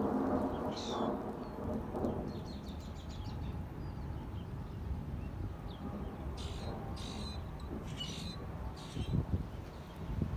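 Strong thunderstorm wind gusting and rumbling against the microphone, a little louder in the first two seconds and again near the end. Birds chirp and trill over it several times.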